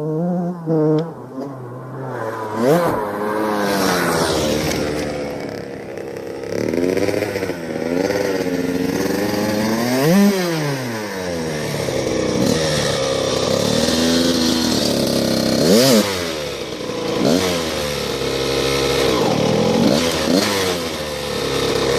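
Yamaha YZ85 two-stroke dirt bike engine, bored out to 112, being ridden: it revs up and falls back again and again as the throttle is worked through the gears, with one sharp rev and drop about halfway through.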